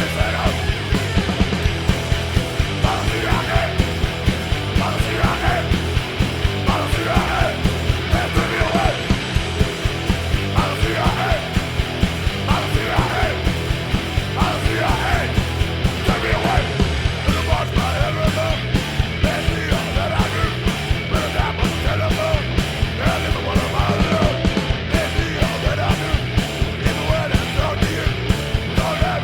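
Studio punk rock recording: distorted guitar, bass and a fast, steady drum beat under a yelled lead vocal.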